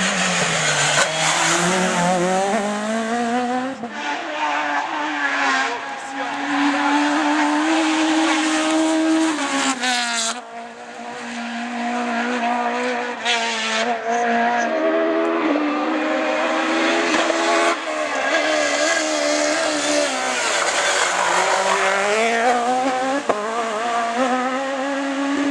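Rally car engine revving hard, its note climbing and dropping again and again through gear changes and lifts, with a sharp break about ten seconds in.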